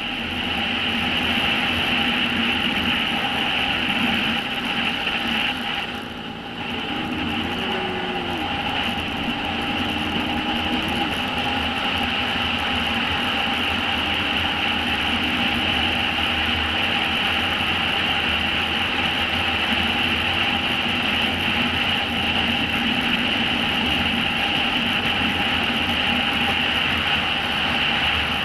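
Motorcycles riding at speed during a chase: steady wind and engine noise, with a faint engine pitch briefly rising and falling and a short dip in level a few seconds in.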